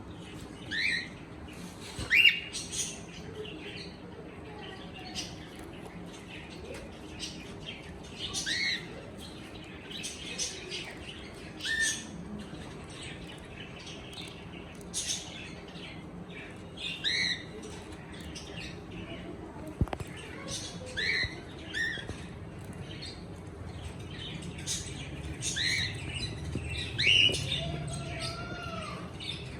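Cockatiel chirping: short rising chirps every second or two, with a longer whistled note near the end.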